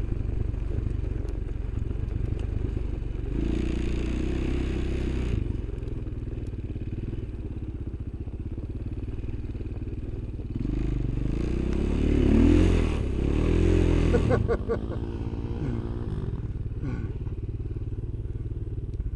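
Engine of an off-road vehicle running steadily under the rider, revving up twice, about three seconds in and again around ten seconds in, then rising and falling in pitch near the end.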